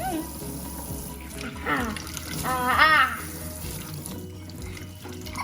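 Tap water running steadily. A high voice calls out twice around the middle, the second call the louder.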